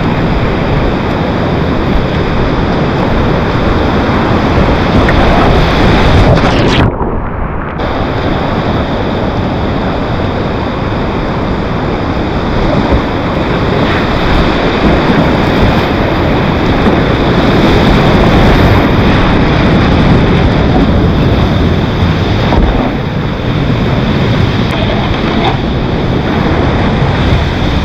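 Loud, steady rush of whitewater rapids, with water and wind buffeting the camera microphone. The sound goes briefly muffled about seven seconds in.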